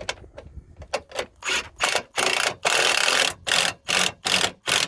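Hand ratchet wrench tightening a fastener down, a series of short ratcheting strokes a few times a second, with two longer runs of clicking in the middle.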